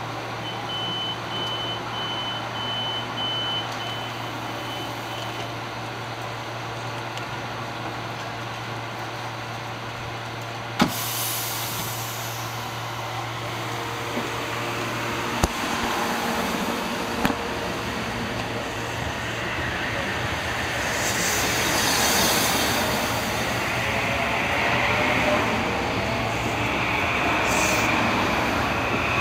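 Metro-North M8 electric multiple-unit train at a platform: a steady hum from its onboard equipment, a string of short high beeps in the first few seconds, and a sharp clunk about eleven seconds in as the doors shut. The train then pulls away, its motors whining up in pitch and its running noise building toward the end.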